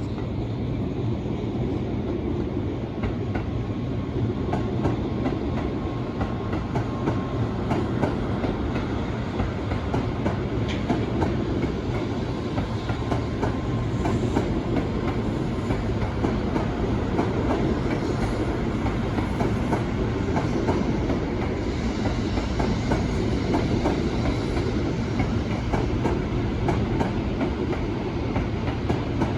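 A train running past on rails, a steady heavy rumble with rapid clicking of wheels over the track that holds for the whole half-minute.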